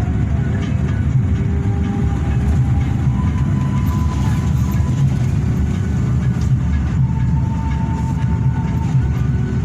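Steady low rumble of a Hino RK8 coach under way, engine and road noise heard inside the passenger cabin while cruising.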